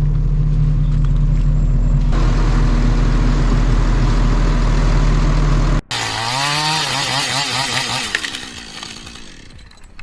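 A heavy forestry machine's engine running steadily at a low drone. About six seconds in it cuts off abruptly to a chainsaw revving, its pitch wavering up and down, fading near the end.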